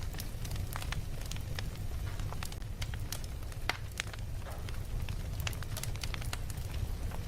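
A fire crackling: irregular sharp pops and snaps over a steady low rumble.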